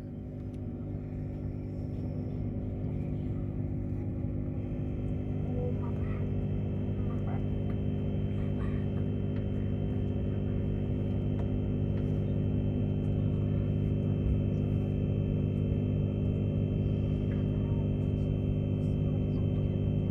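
Tilt Train running, heard from inside the carriage: a steady drone with several steady tones that grows gradually louder. A higher whine joins about four seconds in.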